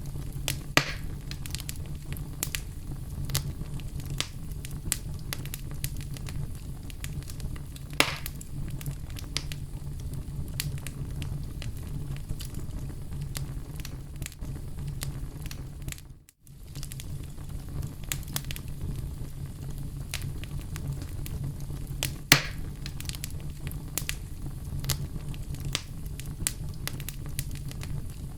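Oak logs burning in a fireplace: a steady low rumble of flames under constant small crackles, with a few louder pops. The sound briefly cuts out for a moment about halfway through.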